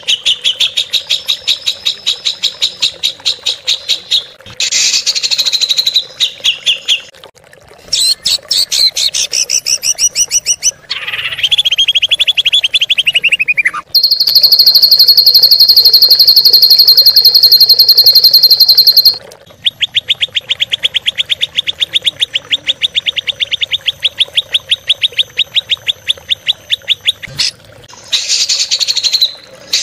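Songbird song: a string of fast, pitched trills, each a few seconds long, changing in pitch and rhythm from one to the next. The loudest is a high, very even trill about halfway through that lasts about five seconds.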